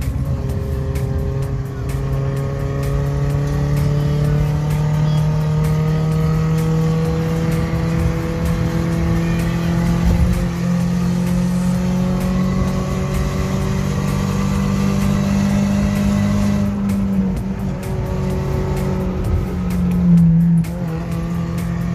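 Toyota 3SZ 1.5-litre four-cylinder engine in a VW bus pulling in gear, its note climbing slowly and steadily as the van gathers speed. The pitch drops about three-quarters of the way through, as at a gear change, and changes again near the end.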